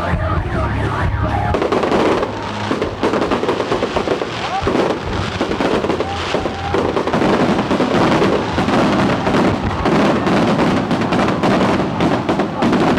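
Fireworks display: a rapid, unbroken run of bangs and crackles, growing denser about halfway through.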